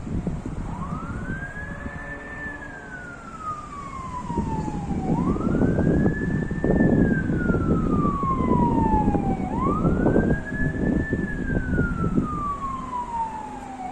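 A siren wailing: each cycle rises quickly, holds briefly at the top, then falls slowly, repeating about every four and a half seconds, three times over. Gusts of wind buffet the microphone underneath it.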